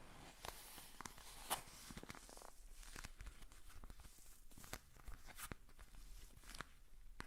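Soft, irregular close-up tapping and scratching on an object, made as ASMR triggers: a string of small clicks and ticks at no steady rhythm, the sharpest about one and a half seconds in, over a faint hiss.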